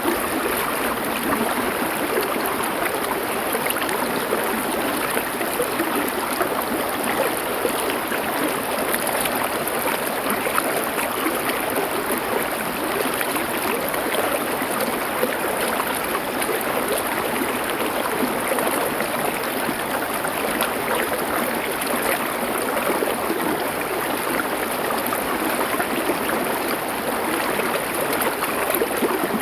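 Stream water flowing over stones, a steady, unbroken rush and burble.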